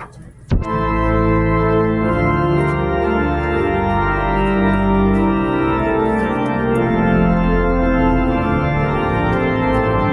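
Church organ playing sustained full chords with a deep bass. It cuts in suddenly after a click about half a second in.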